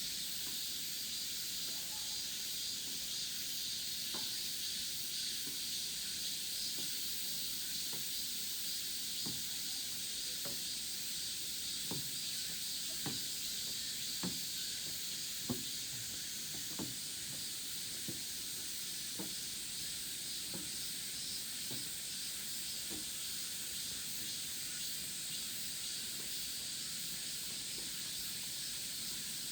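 Steady high-pitched chorus of cicadas. Through the middle, soft low knocks come about once a second.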